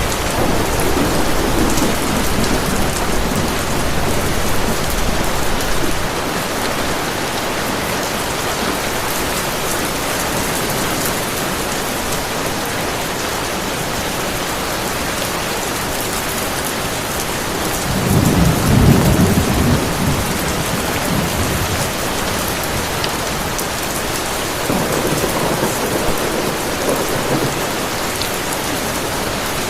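Heavy rain falling steadily, with rumbles of thunder. The loudest roll swells about eighteen seconds in and fades over a few seconds, and a fainter one comes later.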